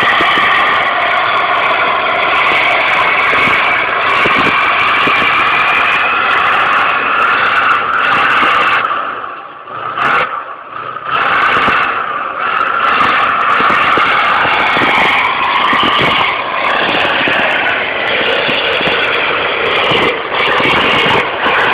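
Loud, steady vehicle engine and road noise, dropping away briefly about nine to eleven seconds in before returning.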